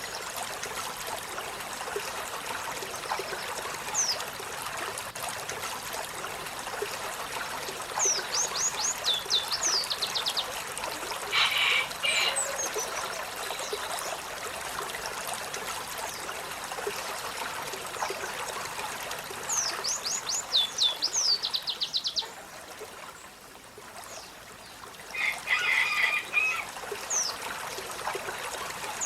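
Olive-backed sunbird singing: runs of about eight to ten rapid, high notes, each sweeping downward, repeated a few times, with two short, harsher chattering bursts between them. A steady hiss lies underneath.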